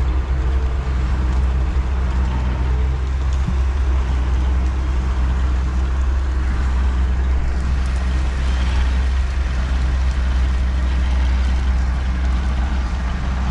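Zmaj 142 combine harvester's diesel engine running steadily as the machine drives across rough ground, a continuous low drone.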